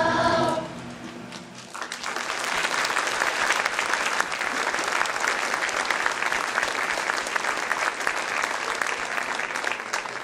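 A children's choir's final held note cuts off about half a second in. The audience then claps, the applause building within a couple of seconds and continuing steadily until it thins out near the end.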